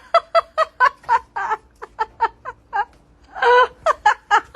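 A cat meowing over and over in short, quick calls, about three a second, with one longer call about three and a half seconds in.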